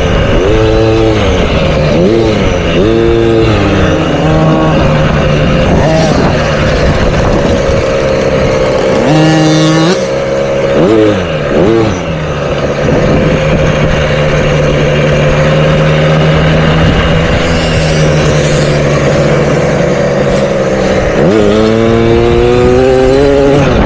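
Motocross bike engine revving up and down in quick cycles as it rides through the gears. It holds one steady pitch for several seconds in the middle, then climbs hard again near the end.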